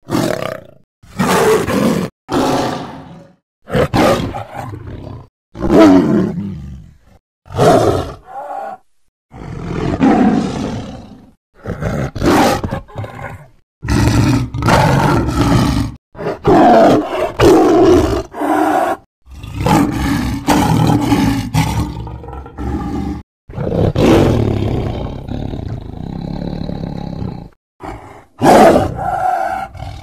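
Sound-effect roars of a sabre-toothed cat (Smilodon): a string of a dozen or so separate loud roars, most a second or two long with short gaps between them, coming longer and closer together in the second half.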